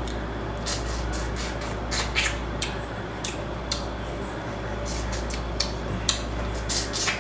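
Blue crab shells being cracked and picked apart by hand while eating, giving irregular sharp cracks and clicks, several a second at times, over a steady low hum.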